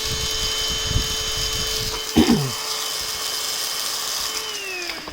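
Onson FS001 cordless stick vacuum's suction motor running with a steady whine and a clunk of handling about two seconds in; near the end it is switched off and the whine falls in pitch as the motor winds down.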